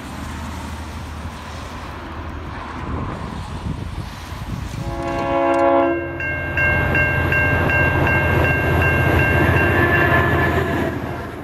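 A diesel train approaches with its engine running, and a train horn sounds a chord for about a second about five seconds in. Then an N class diesel locomotive runs past with a steady low rumble while level-crossing electronic bells ring about three times a second.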